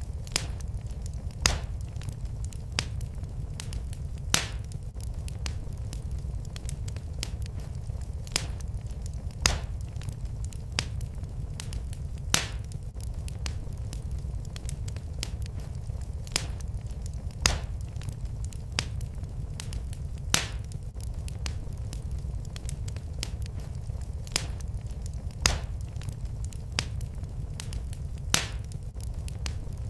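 Fireplace fire crackling: sharp pops every few seconds and many fainter ticks over a steady low rumble of the flames.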